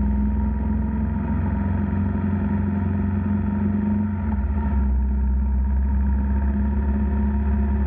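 Motorcycle engine running steadily while riding, over a deep low rumble; the engine note changes about five seconds in.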